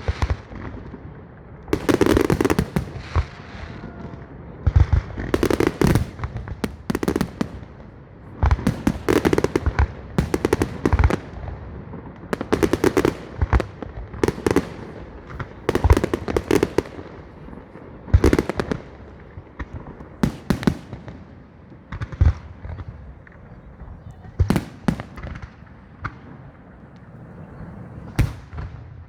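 Fireworks salute: aerial shells bursting one after another, a loud bang every one to two seconds, each trailing off in crackling.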